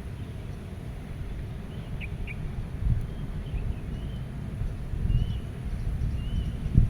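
Wind buffeting the microphone as a gusty low rumble, with a songbird giving short, faint chirps every second or so from about two seconds in.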